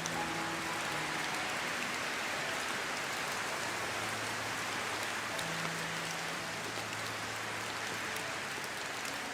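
Steady rain falling, an even hiss with scattered tiny drop ticks. Faint low steady tones come and go beneath it.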